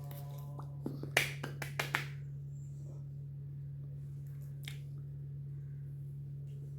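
A quick run of about seven sharp snapping clicks within about a second, the third the loudest, over a steady low electrical hum.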